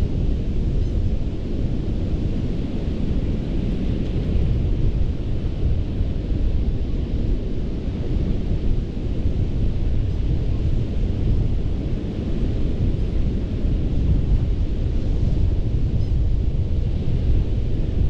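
Ocean surf on a sandy beach: a continuous rushing wash of breaking waves with a deep low rumble, swelling and easing gently every few seconds.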